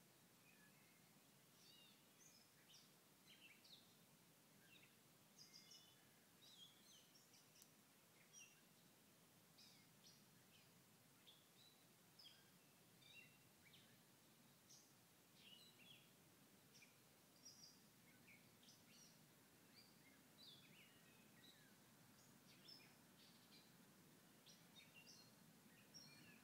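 Near silence, with faint, scattered bird chirps and short calls throughout.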